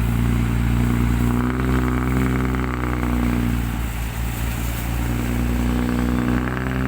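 Excavator's diesel engine running hard under load, scooping soil to load a dump truck. The steady engine note shifts near the end.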